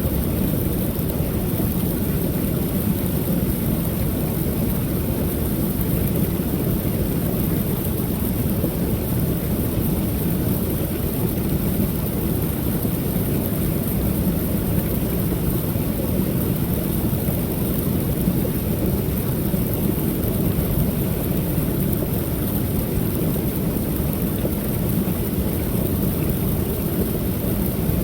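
Creek waterfall pouring steadily: an even, low rush of falling water with a thin hiss above it, no change in level.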